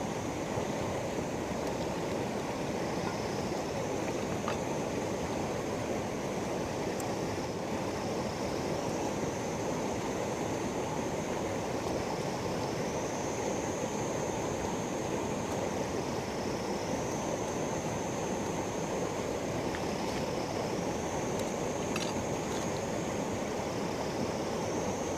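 River water rushing steadily, with a high, thin buzz that steps between two pitches every few seconds.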